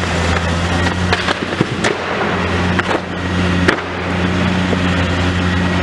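Demolition excavator's diesel engine running steadily under load, with scattered cracks and knocks of building debris being broken and dropped, the sharpest about two seconds in and again near the middle.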